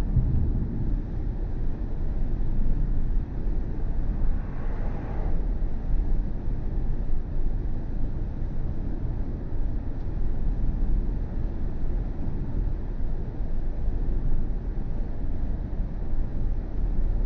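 Steady low road and tyre rumble of a BMW i4 M50 electric car on the move, with no engine note. About four seconds in a brief, brighter hiss swells and fades.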